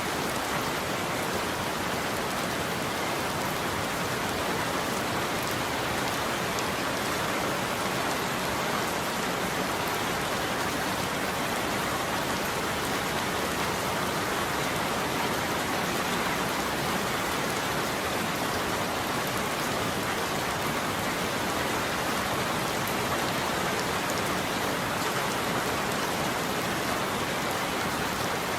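Steady heavy rainfall, an even hiss of rain pattering on surfaces with no thunder.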